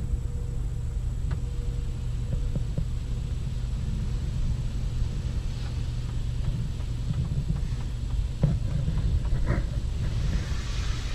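Steady low rumble heard from inside a car in a touchless car wash bay, with a few light knocks and a hiss that builds near the end as the wash gets going.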